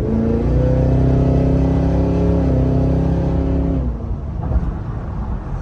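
Cadillac Escalade V's supercharged 6.2-litre V8 pulling hard under acceleration, a loud steady drone for about four seconds, then easing off to a low rumble.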